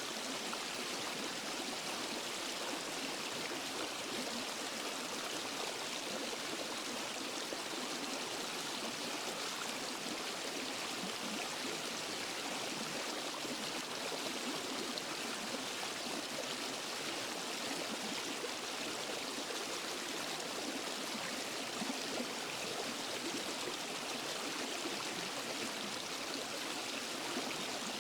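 Steady rush of a waterfall and forest stream, water splashing and flowing without pause, most of its sound in the hiss and splash rather than any low rumble.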